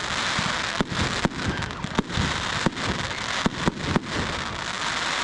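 Fireworks display: continuous dense crackling, with about a dozen sharp bangs going off at irregular moments.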